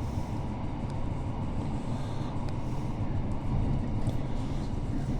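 Passenger train running at speed, heard from on board: a steady low rumble of wheels on track with faint hiss rising and falling above it.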